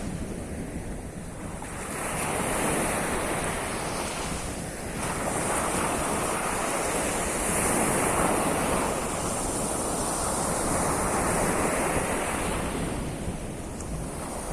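Sea of Azov surf: waves breaking and washing up the shore in a continuous wash that swells and ebbs every few seconds.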